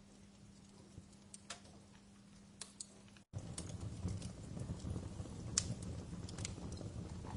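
Wood fire in a fireplace crackling, with scattered sharp pops and snaps over a low rumble of flames. About three seconds in the sound cuts out for an instant and returns with the low rumble noticeably louder.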